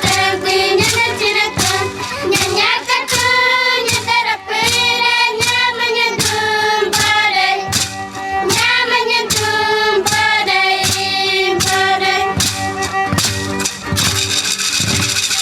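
High voices singing a melody together over a regular beat of short strokes. About fourteen seconds in, a rattle starts shaking.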